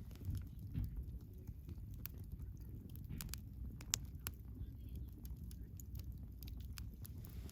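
Wood fire burning with a low, steady rumble and scattered sharp crackles and pops from the burning logs, one louder pop about halfway through.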